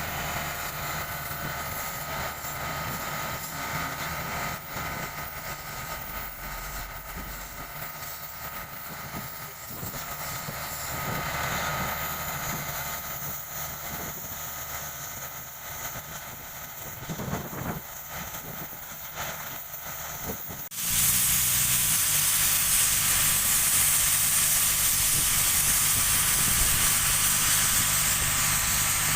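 Heavy construction machinery diesel engines running steadily. About two-thirds of the way through, the sound switches abruptly to a louder, steady hiss with engine hum underneath.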